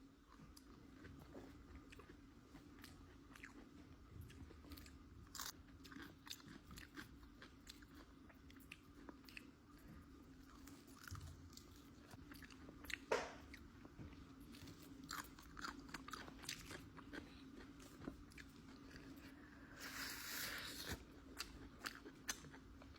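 Close-miked biting and chewing of crispy chicken wings: a steady run of crunches, with one louder crunch about halfway through.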